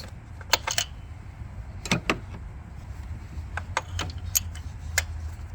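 Irregular sharp metal clicks and taps, about a dozen in five seconds, from hand tools (a magnet pickup and a socket extension) knocking in a spark plug well. A low steady hum runs underneath.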